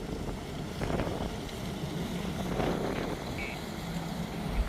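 Steady low engine rumble of a vessel under way, with wind noise on the microphone and a brief low thump near the end.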